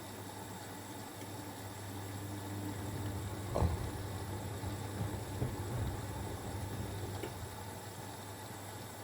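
Siemens Extraklasse XLS 140 A front-loading washing machine in its wash phase: the drum turns for a few seconds, sloshing the wet load, over a steady low hum. There is a knock about three and a half seconds in and a few softer bumps shortly after, before the drum settles again.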